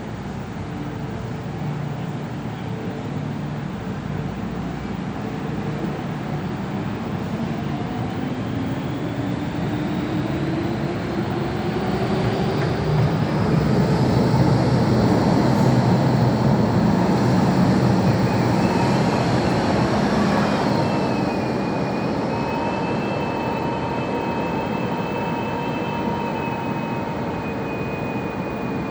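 MTR M-Train metro running in a tunnel: a steady rumble of wheels on track under the whine of its traction motors. The whine rises in pitch over the first half and the running grows louder at its middle. From about two-thirds of the way in, steady high-pitched tones hold.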